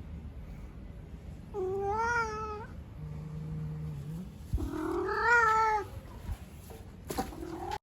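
Domestic cat meowing twice, two long wavering meows a few seconds apart, the second louder: a hungry cat demanding food.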